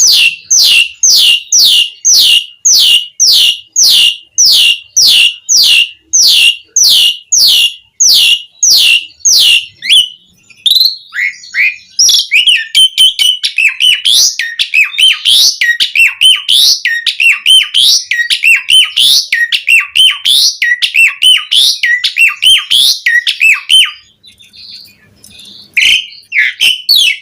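Asian pied starling (jalak suren) singing: first a fast series of repeated whistled notes, each sliding down in pitch, then a varied, chattering run of short notes. There is a short pause near the end before it starts calling again.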